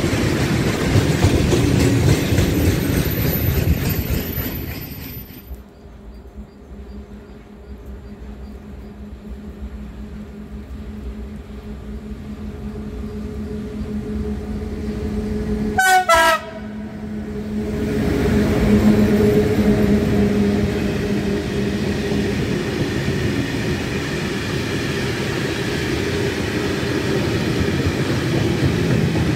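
Freight train of open coal wagons rolling past on the rails, its noise dropping away about five seconds in. Then a PKP ET41 twin-section electric locomotive approaches, sounds one short horn blast just before halfway, and runs past with a long string of coal wagons rumbling and clattering by.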